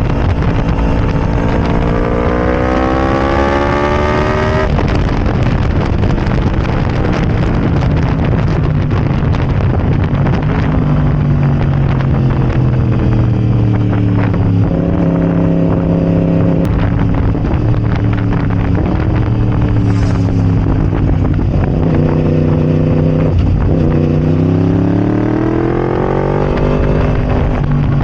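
Yamaha R1's crossplane inline-four running loud through a decatted Arrow Racing exhaust (catalytic converter removed). The engine note climbs in pitch over the first few seconds, falls away, holds steady for a while, then climbs again near the end.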